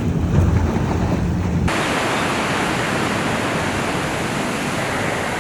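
A low, steady watercraft engine rumble that cuts off abruptly about a second and a half in, giving way to a loud, even rush of wind and water noise.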